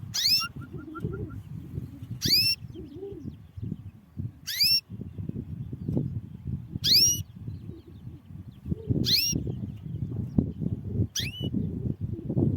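Female canary giving a short rising call note six times, about every two seconds, each sweeping steeply upward in pitch, over a low background rumble.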